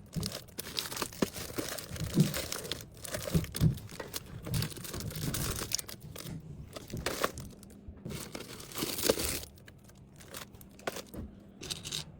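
Packaging crinkling and rustling as items are handled and packed, with irregular light clicks and taps; it quietens for a moment near the end.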